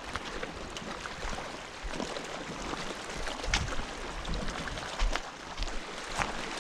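Steady wash of water along a rock shoreline, with low wind rumble on the microphone and a few scattered sharp ticks.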